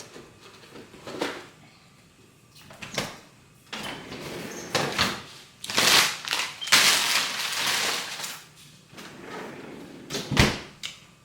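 Household handling noises: scattered knocks and clatter, a stretch of rustling hiss in the middle, and a heavier thud near the end.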